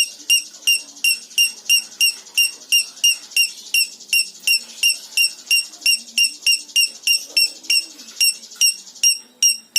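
The bird known in Indonesian bird-keeping as the 'minor', calling: a sharp, high chirp repeated evenly about three and a half times a second.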